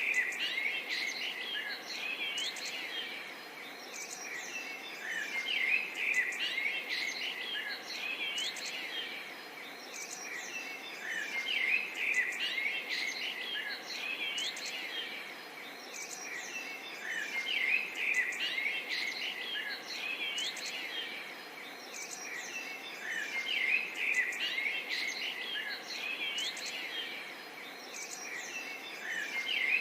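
A dense chorus of many songbirds, with quick chirps, whistles and trills overlapping over a faint steady hiss. The chorus swells and eases in waves every few seconds.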